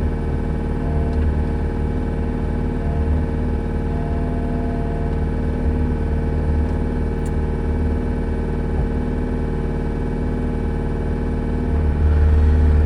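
An engine idling steadily, picking up and running louder near the end.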